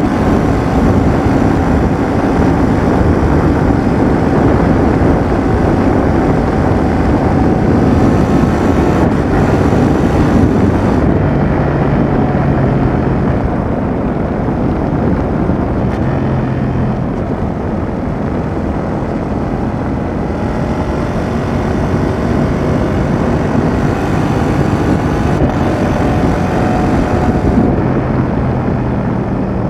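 Yamaha XSR700's CP2 parallel-twin engine running through a Roadsitalia Double Fire aftermarket exhaust while the motorcycle is ridden, its pitch rising and falling with the throttle, over wind and road noise. It is louder for the first ten seconds or so, then eases to a lower, steadier note.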